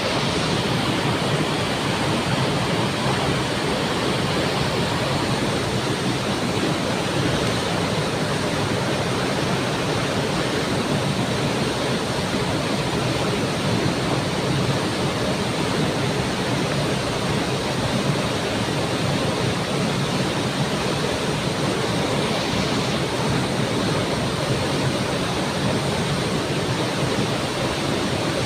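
Waterfall splashing and rushing as a steady, even wash of water noise that holds constant throughout.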